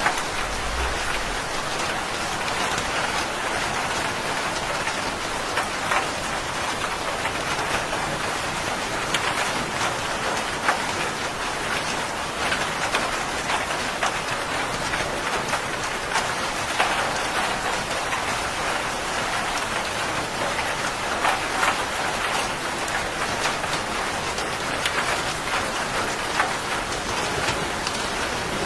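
Steady rain falling on a surface, with individual drops ticking sharply every few seconds.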